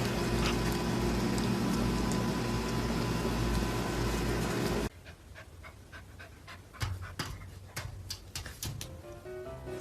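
A puppy panting, over a loud steady hum that cuts off abruptly about five seconds in, leaving a quieter stretch of irregular small clicks.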